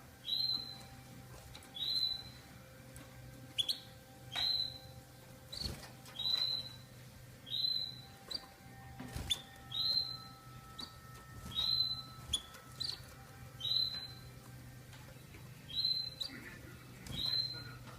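Canary giving a short, high call about every two seconds, each one sweeping up and then levelling off, with a few sharp clicks in between.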